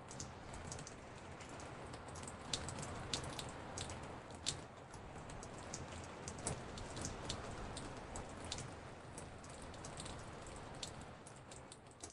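Rain drops on a porch, layered from several recorded samples: a steady rain hiss with many sharp, irregularly spaced drip ticks, a few landing much louder than the rest. The sound dips slightly near the end.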